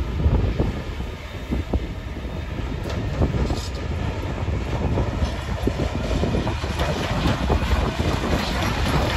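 Freight train passing close, headed by a Continental Rail Serie 256 electric locomotive and followed by tank and container wagons. The wheels clatter over the rail joints in a steady run of knocks that grows louder as the train comes nearer.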